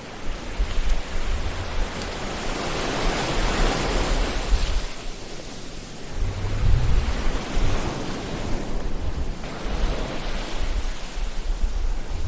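Ocean waves breaking on a shore: a rushing wash of surf that swells and falls back every few seconds, with a low rumble beneath the swells.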